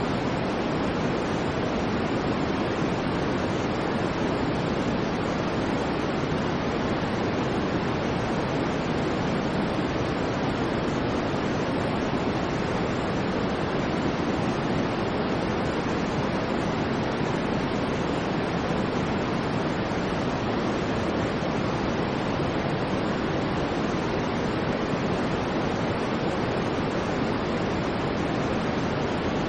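Steady white noise, an even, unchanging hiss with most of its weight in the low-middle range.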